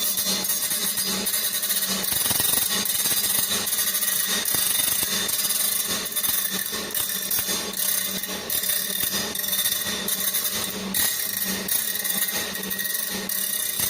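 Circular saw blade grinder running, its grinding wheel working the blade's teeth with a stroke that repeats a little faster than once a second.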